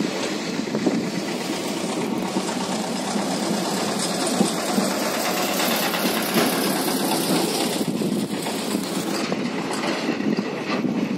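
Steady running noise of a moving Indian Railways train heard from on board: wheels running on the rails with a continuous rattle.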